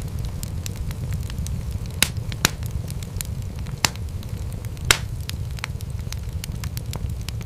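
Wood fire crackling in a fireplace: a steady low rumble of flames under frequent small pops, with four louder snaps between about two and five seconds in.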